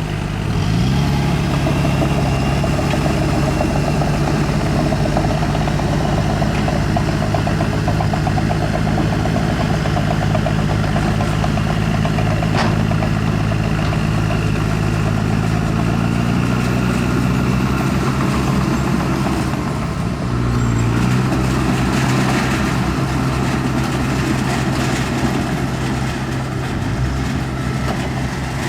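Heavy diesel engine of earthmoving equipment running steadily under load. Its note dips briefly and picks up again about twenty seconds in.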